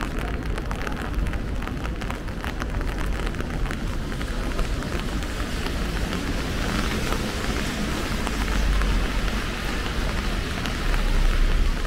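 Rain falling: an even hiss with many small drop ticks over a low rumble, swelling a little in the middle and again near the end.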